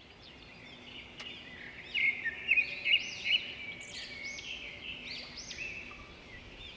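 Birds chirping and singing in quick, repeated short calls, loudest between about two and three and a half seconds in.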